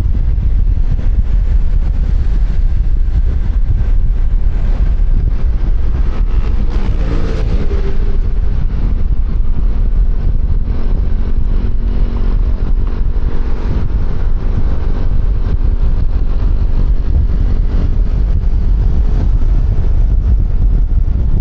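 Wind buffeting a helmet-mounted microphone on a moving QJMotor Fortress 160 scooter, a loud steady low rumble. An engine note rises and falls about a third of the way in, then hums more steadily for a few seconds.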